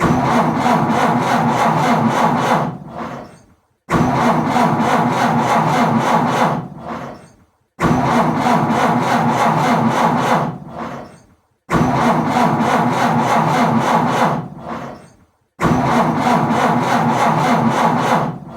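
Car's starter motor cranking an engine that will not catch. There are five attempts about four seconds apart; each cranks for around three seconds in an even, rapid rhythm, then dies away.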